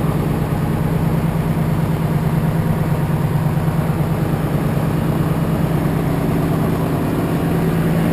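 Dump truck engine idling steadily, a low, even note with rapid firing pulses.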